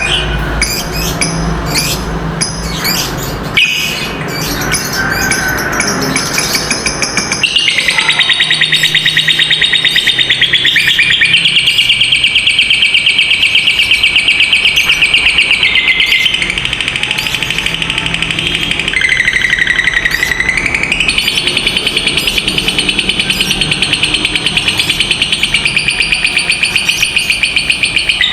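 Lovebird ngekek: fast chattering calls at first, then from about seven seconds in one long, very rapid rattling trill that runs on almost without a break. The trill dips lower in pitch for a couple of seconds past the middle.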